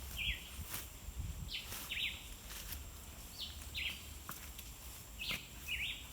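A bird repeating a short two-note call, each note sweeping down in pitch, about once every two seconds. A few faint knocks and a low rumble of outdoor background run beneath it.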